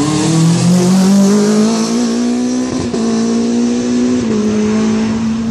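Rally car engine under hard acceleration, its pitch rising over the first two seconds and then held high, with a brief break near the middle and a small step down in pitch about four seconds in.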